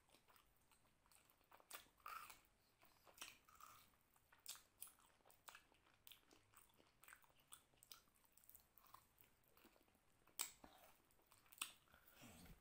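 Faint close-up chewing of mutton curry and basmati rice eaten by hand. Many irregular mouth clicks, with two sharper ones near the end.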